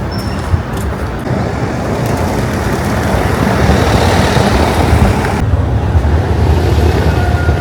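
Loud, steady rumble and noise of a moving vehicle, with the higher hiss dropping away about five seconds in.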